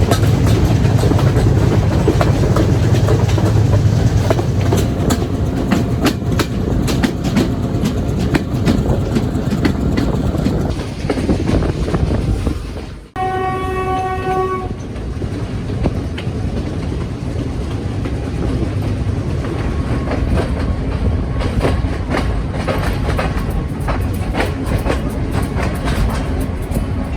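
Train running on the rails, a steady rumble with rapid clicking of the wheels over the track. About halfway through there is a momentary drop-out, then the locomotive horn sounds once for about a second and a half, and the running noise carries on.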